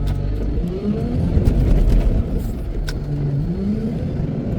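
Wheel loader's diesel engine running under load, revving up twice, with a sharp click near the middle.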